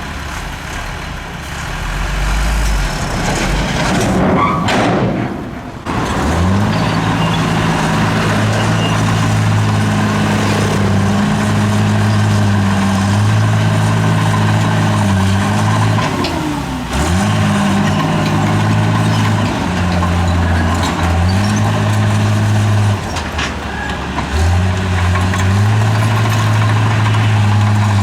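Heavy diesel engine of an earthmoving machine working hard. About six seconds in it rises to a steady high pitch, then its pitch steps up and down as the throttle and load change, dropping briefly around the middle and again near the end.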